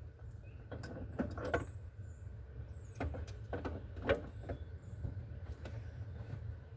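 Irregular knocks, clicks and scrapes as a car's interior trim panels and carpet are handled and pulled, over a steady low hum.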